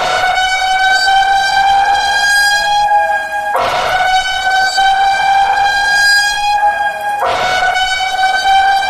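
Civil-defence heavy-rain warning siren sounding a horn-like tone that creeps slightly upward in pitch. It restarts with a sharp onset about every three and a half seconds, three times, and signals a risk of landslides in the area.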